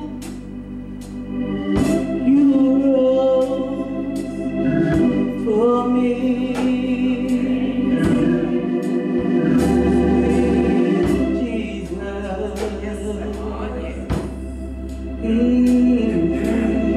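Gospel accompaniment led by an organ holding sustained chords over a steady bass, with drum and cymbal hits keeping a regular beat.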